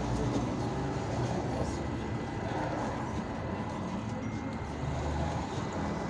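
Cabin noise inside an IVECO Urbanway 18M articulated city bus: a steady low engine rumble with a faint constant high-pitched whine.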